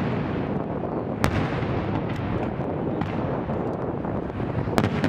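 Fireworks display: a continuous low rumble of shell bursts, with two sharp cracks, one about a second in and one near the end.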